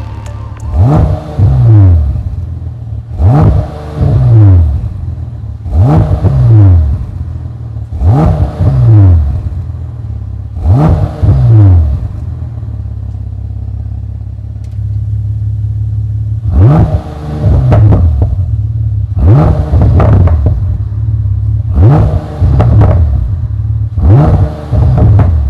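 Bentley Continental GT engine through a QuickSilver aftermarket exhaust, idling and being blipped: about nine short revs, each rising and dropping back to idle a couple of seconds apart, with a longer stretch of steady idle in the middle.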